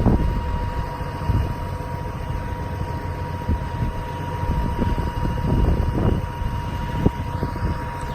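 6.7-litre Cummins turbo diesel running with the PTO engaged, driving the hydraulics as a bucket truck's telescopic main boom extends. A steady low rumble with a thin steady whine over it, and a single click about seven seconds in.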